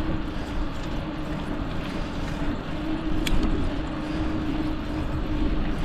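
Wind rumbling over the microphone and tyre and road noise from a bicycle being ridden, with a steady low hum in the second half and one sharp click about three seconds in.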